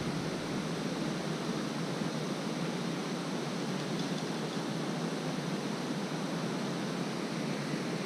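Steady rush of a waterfall: an even hiss of falling water with no breaks.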